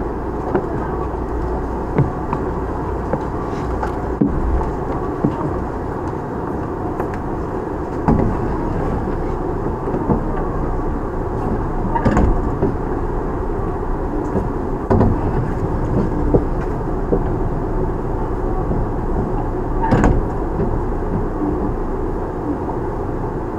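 Tokyu 9000 series electric train heard from on board while running: a steady rumble of wheels on rail, with occasional sharp clacks from rail joints.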